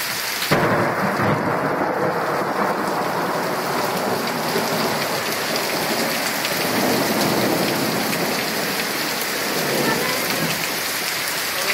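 Thunder rolling over steady heavy rain. The rumble breaks in suddenly about half a second in and keeps rolling, under the constant hiss of rain.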